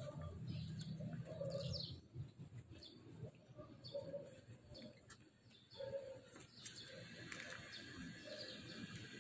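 Faint birds calling: short low calls repeating every second or two, with a few higher chirps. A low rumble runs through the first two seconds.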